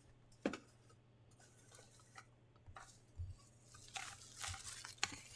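Packaging being handled during an unboxing: a sharp click about half a second in, then light rustling and crinkling near the end, over a faint steady hum.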